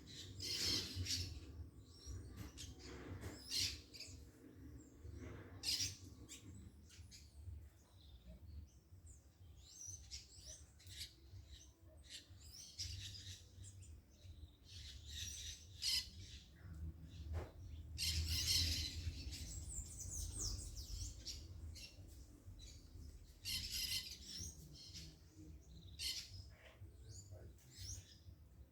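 Small birds chirping: short high calls in scattered clusters, busiest a little past the middle, over a low steady rumble.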